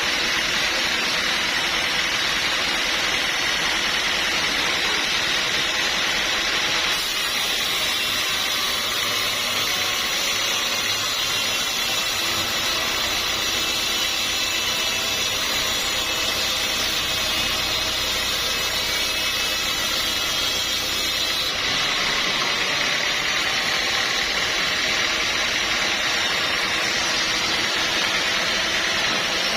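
Sawmill saw cutting teak, running as a loud, steady mechanical noise. From about seven seconds in to about twenty-one seconds in, a low hum and extra high hiss join the sound.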